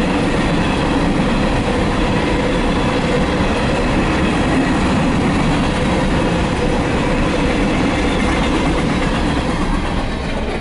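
Empty ballast cars of a freight train rolling past, a steady loud rumble of steel wheels on rail with some clickety-clack, easing slightly near the end.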